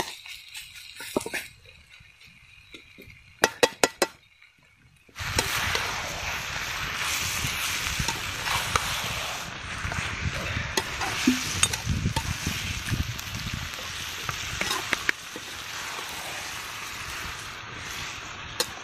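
Chicken frying with onions and chicken masala in a pan, sizzling loudly and steadily from about five seconds in, when the sizzle starts suddenly. Just before, a few sharp clinks of a utensil on the pan.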